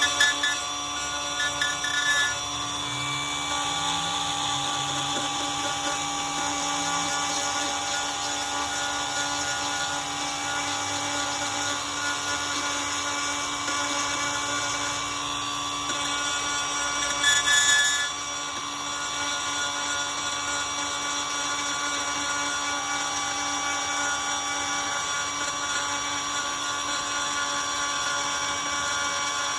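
Small handheld power tool running steadily as it grinds out a pinhole pit in a fiberglass hull, cutting back to sound fiberglass. It briefly gets louder about two-thirds of the way through.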